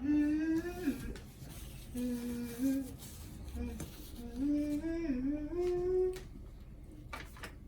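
A voice humming a tune in short melodic phrases, with the pitch sliding up and down between notes. A few sharp clicks near the end.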